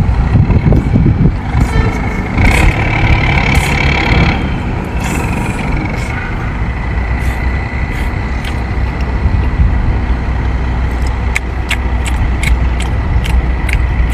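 Boat engine running with a steady low rumble. A noisy surge comes a few seconds in, and sharp clicks are scattered near the end.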